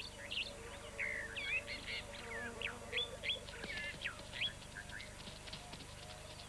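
Birds calling with quick, whistled chirps, thick for the first few seconds and then thinning out, over a faint sustained music note.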